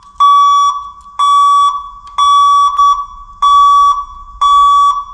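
Truck backup alarm beeping steadily at about one high-pitched beep a second, five beeps with a couple of short blips between: the truck is in reverse with the key on.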